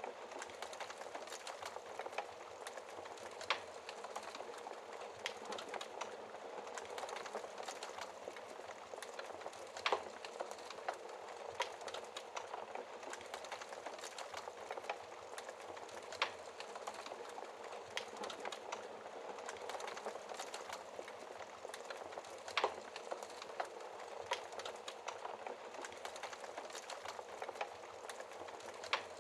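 Wood fire burning in a fireplace, crackling steadily with a dense patter of small snaps and a louder pop every few seconds.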